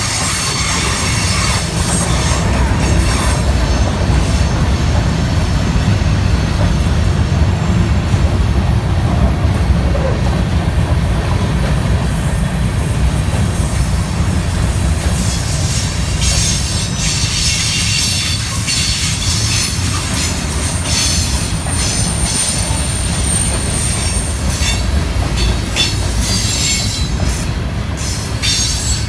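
CSX freight train's covered hoppers and tank cars rolling steadily past: a continuous deep rumble with wheel clatter. A thin, high wheel squeal rings out for about two seconds around three-quarters of the way through.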